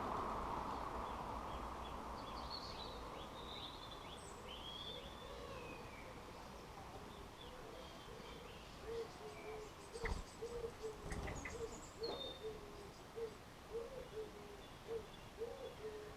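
Garden birds at a bird table: high chirps in the first few seconds, then from about halfway a bird's low, short call repeated about twice a second. A couple of sharp taps come in the middle.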